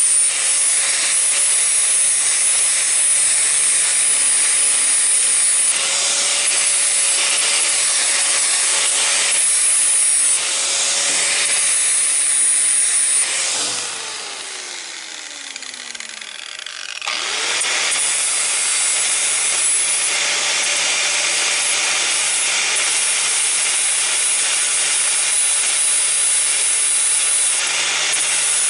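Electric miter saw running and cutting steel, a loud steady grinding hiss over the motor's whine. About 13 seconds in, the motor is released and winds down with a falling pitch. It is started again about 17 seconds in and cuts on.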